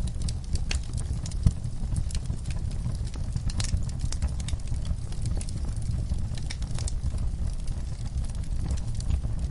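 Wood fire crackling in a fireplace: a steady low rumble of flame with irregular sharp pops and snaps, one louder snap about a second and a half in.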